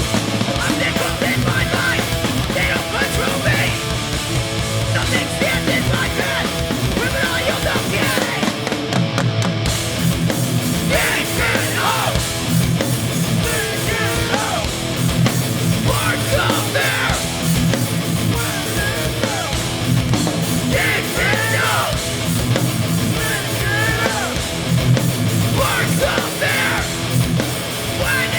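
Live hardcore punk band playing at full volume: distorted electric guitars, bass and drums, with shouted vocals coming in and out.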